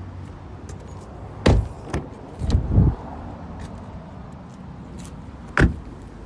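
A few sharp knocks and clunks, one about a second and a half in, a double one near three seconds and one near the end, over a low steady hum.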